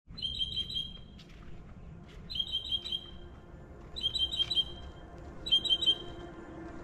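A songbird calling in four short bouts of rapid, repeated high chirps, each bout about half a second long and coming every second and a half or so, over a faint low outdoor rumble.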